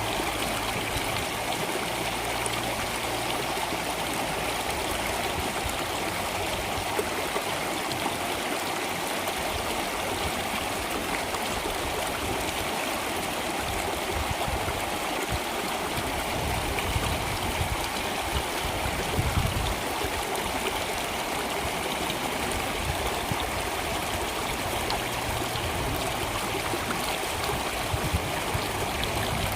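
A stream of water flowing and trickling steadily, an even rushing hiss with no breaks.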